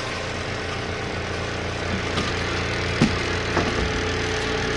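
Small portable twin-tub washing machine running with a steady motor hum, with a few short clunks, the loudest about three seconds in.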